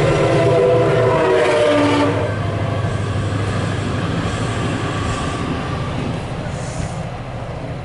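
MARC commuter train passing through a road grade crossing, heard from inside a stopped car, with the rumble and clatter of its coaches. A horn-like tone sounds over the first two seconds, and the rumble then eases as the last car clears.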